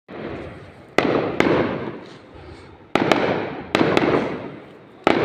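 Aerial fireworks shells bursting: sharp bangs, mostly in close pairs every second or two, each followed by a long rolling echo that dies away.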